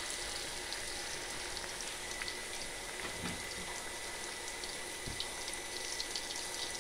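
Battered purple sweet potato pieces deep-frying in hot oil in a wok: a steady sizzle with many small crackles.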